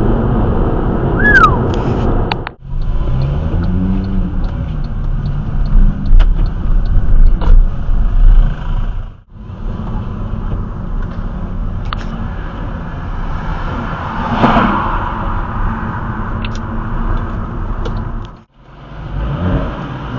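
Sports car engines running and revving in street traffic, with one rev rising and falling a few seconds in. The sound breaks off briefly three times at cuts between clips.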